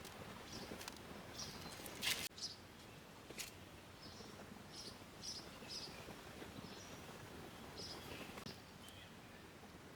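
Small birds chirping in short, scattered calls, with a brief loud noise about two seconds in and a fainter click a second later.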